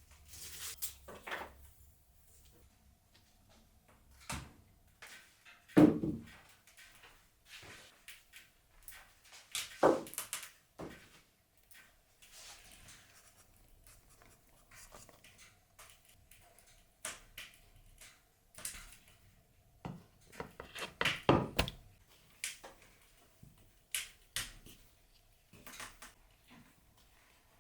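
Objects being handled in a small room: scattered clicks and knocks with a few heavier thuds, the loudest about six seconds in, over a faint steady hum.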